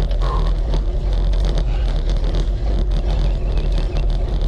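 Steady low rumble of wind and road noise on a bicycle-mounted camera's microphone as a road bike climbs a hill.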